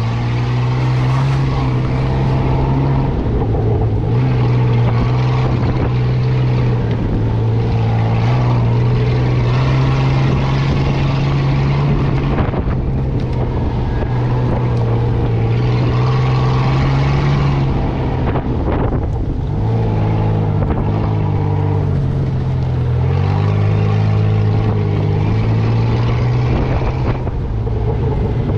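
Engine of an off-road 4x4 running steadily as it drives along a rough dirt trail, its pitch dropping and rising a few times in the second half. Some wind on the microphone.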